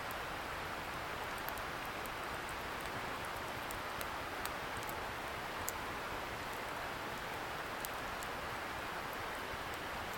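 Wood campfire crackling with scattered sharp pops, over a steady hiss from a distant river.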